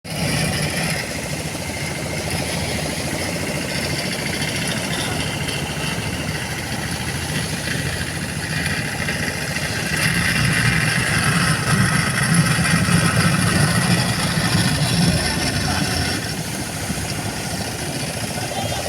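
Motorboat engine running steadily, getting louder for several seconds past the middle before settling back.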